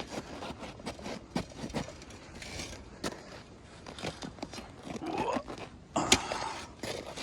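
Boots crunching and scraping on ice-crusted snow in slow, irregular steps up a slope, with a louder crunch about six seconds in.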